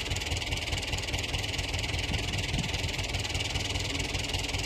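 A mechanical digger's diesel engine running steadily at idle, with a fast even throb.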